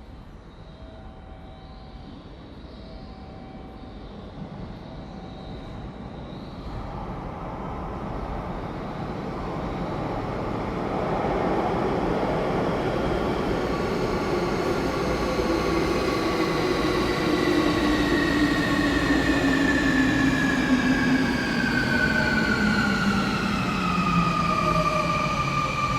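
A 10-car electric train running into the station and slowing as it nears the platform. Its wheel and running noise builds from about a quarter of the way in, and from about halfway its motor whine falls steadily in pitch as it decelerates.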